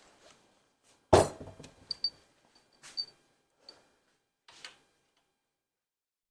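A loud metal clank about a second in, ringing briefly, followed by several lighter metallic clinks and taps: tools and removed engine parts being handled and set down.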